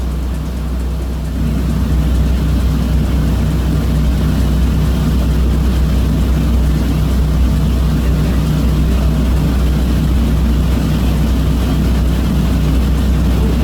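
Passenger catamaran ferry's engines running at cruising speed: a steady low drone with a noisy hiss above it. It gets louder about a second and a half in.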